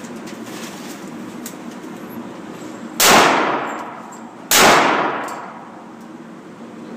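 Two gunshots about a second and a half apart, each sharp and loud with a long ringing echo as it dies away.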